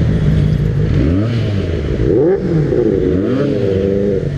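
A Benelli motorcycle with a loud aftermarket exhaust running, its revs rising and falling several times from about a second in, then holding steady near the end.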